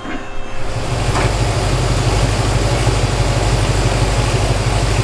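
Corvette 427's 7.0-litre LS7 V8 idling steadily through 2-inch American Racing headers, cutting in abruptly about half a second in.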